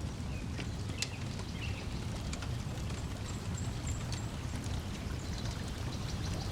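Layered lakeside ambience: a steady low wash of lapping water and breeze, with sharp pops and crackles from a wood fire and a few faint bird chirps.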